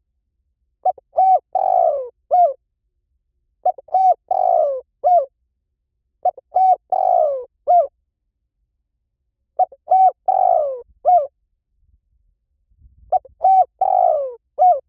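Spotted dove cooing its song, five repeated phrases about three seconds apart. Each phrase has two short coos, a longer coo falling in pitch, and a short closing coo. It is a lure recording used to call doves in.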